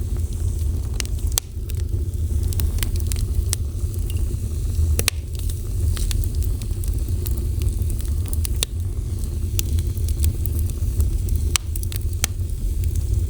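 Fire burning, with a steady low rumble and frequent irregular sharp crackles and pops.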